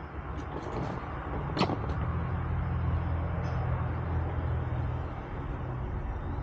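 Low engine hum, like a motor vehicle running nearby, that swells and then holds steady, with a single sharp click about a second and a half in.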